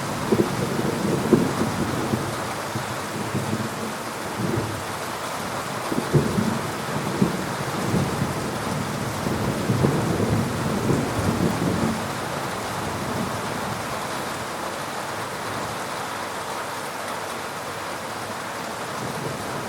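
Thunderstorm: rain falling steadily, with thunder rumbling in rolling swells through roughly the first twelve seconds. The thunder then dies away, leaving only the rain.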